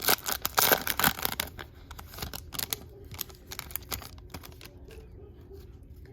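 Foil trading-card pack wrapper being torn open and crinkled: a dense crackle for about the first second and a half, then fainter, scattered crinkling that dies away.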